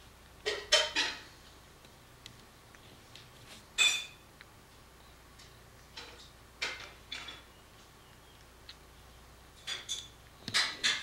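Scattered clinks and knocks of dishes and utensils, with a louder clink about four seconds in that rings briefly.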